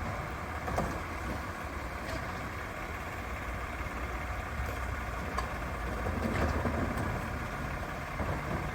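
Recycling truck's engine idling steadily at the curb, with a few faint clicks and a slight swell in level about six to seven seconds in.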